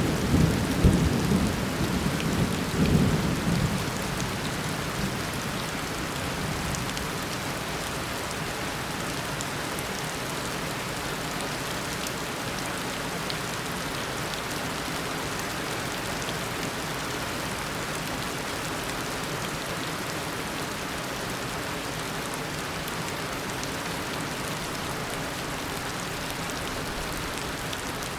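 Heavy tropical rain pouring down steadily. A roll of thunder rumbles at the start and dies away over the first few seconds.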